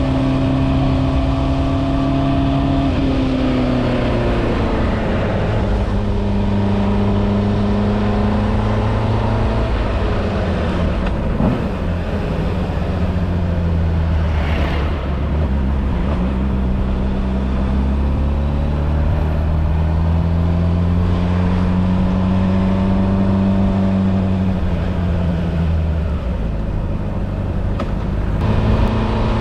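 Motorcycle engine running under way, its pitch falling and rising slowly as the speed changes.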